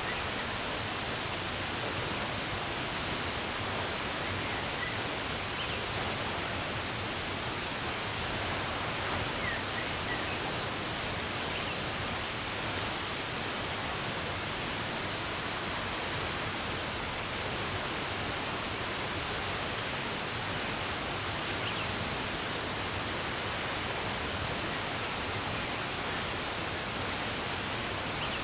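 Running water rushing steadily, with a few faint, brief bird chirps.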